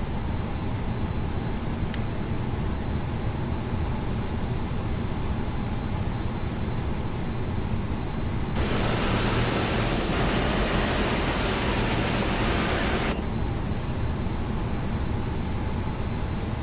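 Steady rushing noise of a parked airliner's air conditioning and ventilation before engine start. About eight and a half seconds in, a louder hiss starts suddenly, lasts about four and a half seconds, and cuts off suddenly.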